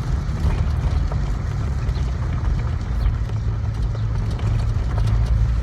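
Nissan 300ZX twin-turbo V6 running steadily while the car is driven, heard from inside the cabin as a continuous low drone.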